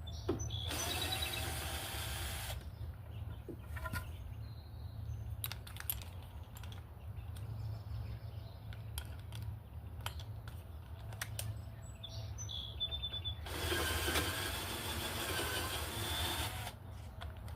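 Power drill boring deeper into the wooden hive in two runs, one about two seconds long near the start and one about three seconds long about three-quarters through. Scattered clicks and knocks come between the runs, over a steady low hum.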